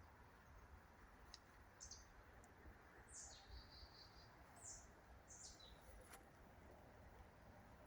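Faint, high-pitched bird chirps, four or five short calls a second or so apart, one drawn into a brief whistle, over a faint steady hiss.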